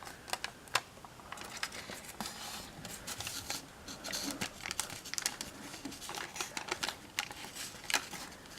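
A sheet of foil origami paper crinkling as it is folded and creased by hand, with many small, irregular, sharp crackles.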